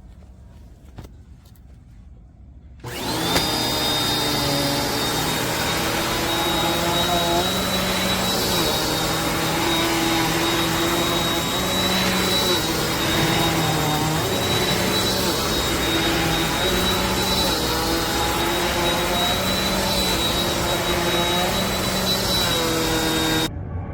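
Eureka NEU350 upright vacuum cleaner switching on about three seconds in and spinning up, then running with a steady high whine while its lower hum wavers every second or two as it is pushed back and forth; it cuts off just before the end.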